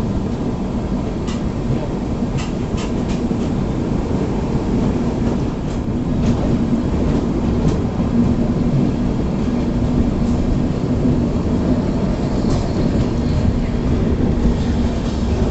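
Shatabdi Express passenger train running on the track, a steady rumble with a low hum and a few sharp clicks in the first half.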